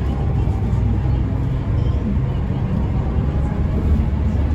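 Mercedes-Benz O405N2 city bus under way, heard from inside: a steady engine drone with road rumble.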